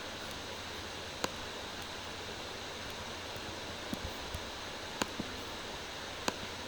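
A few single, sharp computer mouse clicks spread over a steady microphone hiss.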